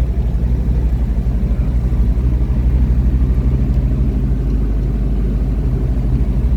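Car driving slowly, heard from inside the cabin: a steady low rumble of engine and road noise, with the engine hum growing firmer about two seconds in.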